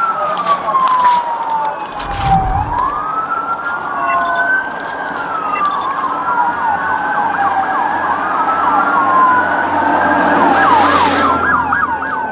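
Police car siren wailing in slow rising and falling sweeps, with a second siren's fast yelping sweeps joining about halfway through. A short low thump about two seconds in.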